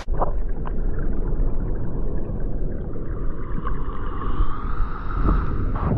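Loud, steady rushing of a large waterfall's falling water heard close up, heavy in the low end, with wind buffeting the microphone.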